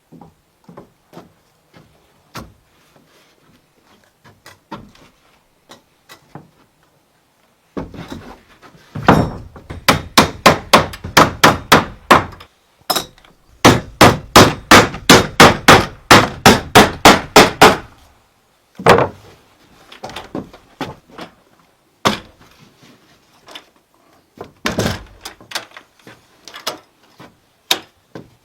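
Hammer blows on wood: two long runs of fast, even strikes, about four a second, as when nails are driven, with scattered lighter knocks before and a few single knocks after.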